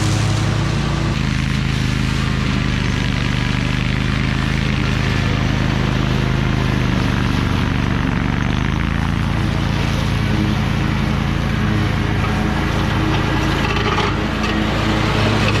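Toro Titan Max zero-turn lawn mower engine running steadily while mowing, its pitch shifting slightly a couple of times.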